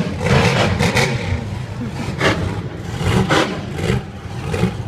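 Monster truck engine running and revving, a loud deep rumble.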